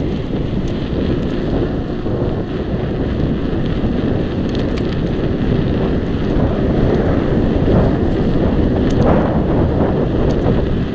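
Wind buffeting the microphone of a chest-mounted camera while cycling: a loud, steady blustery noise, with a few faint ticks.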